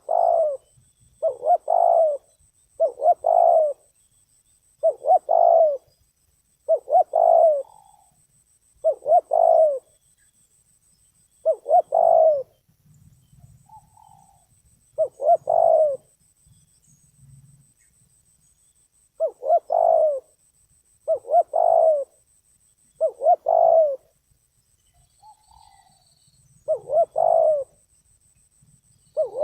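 Spotted dove cooing in a steady run of short phrases, about one every one to two seconds, with two short pauses. A much fainter, higher coo sounds twice in the pauses.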